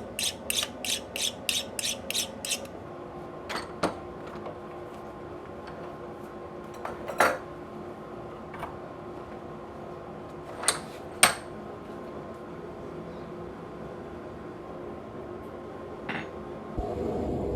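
Light metal-on-metal taps: a quick run of about eight ringing strikes, then scattered single clinks over a faint steady hum. Near the end a louder steady rushing noise starts.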